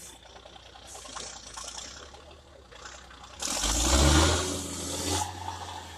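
Trial truck's engine revving hard over a rattle and scrape, with a loud rushing burst of noise about three and a half seconds in that lasts under two seconds.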